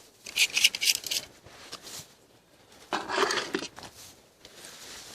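Rustling and crackling of dry leaves and grass on the forest floor, in two bursts: one just after the start and another about three seconds in.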